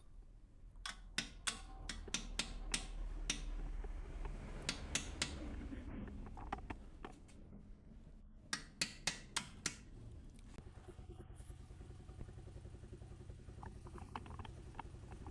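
Sharp metallic clicks and taps from hand tools working on a motorcycle, in three short clusters over a low steady hum.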